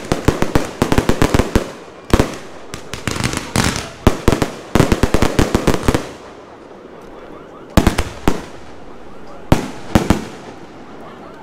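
Aerial fireworks show: rapid volleys of crackling bangs for about six seconds, then a few single loud bangs spaced well apart as the barrage thins out.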